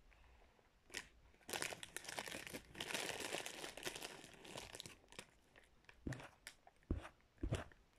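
Close, crackly crunching of a mouthful of cornstarch being chewed, dense for a few seconds, then a few sharp knocks near the end.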